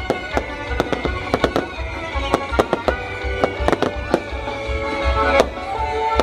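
Firecrackers popping in quick irregular sharp cracks, several a second, over festa junina music with a pulsing bass beat.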